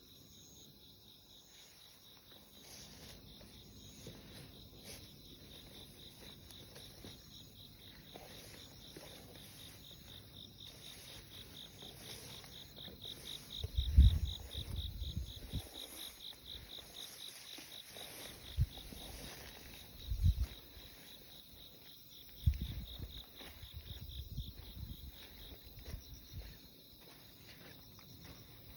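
Insects, crickets by their sound, chirping in a fast, even, high-pitched pulse that runs on throughout. Several low rumbling thumps break in around the middle and are the loudest sounds.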